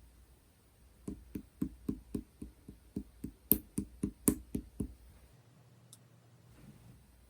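A quick, even run of about sixteen light taps, roughly four a second, lasting about four seconds.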